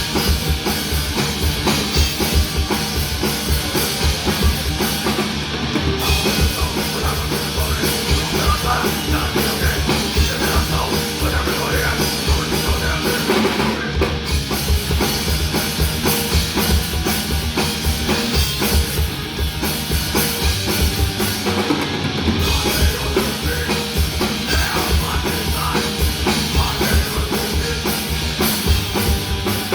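Live thrash/hardcore crossover band playing loud and fast: a drum kit with rapid, steady bass drum and snare hits drives under bass and guitar.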